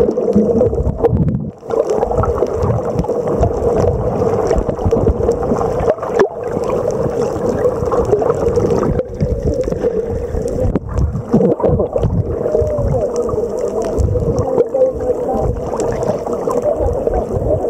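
Continuous gurgling water noise with a steady, wavering hum underneath.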